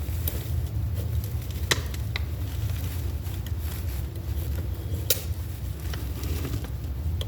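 A few light, sharp clicks of small metal tools on the distributor while its pickup air gap is set, over a steady low hum.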